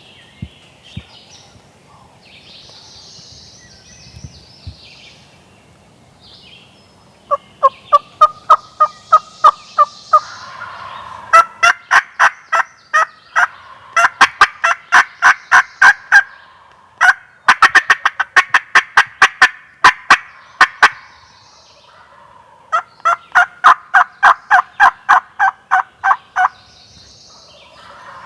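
Turkey yelping: four loud runs of evenly spaced sharp notes, about five a second, each run lasting several seconds, very close by.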